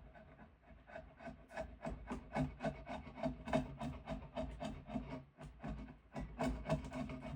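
A piece of diamond willow being worked by hand, a tool scraping the wood in quick repeated strokes, several a second, louder from about a second in.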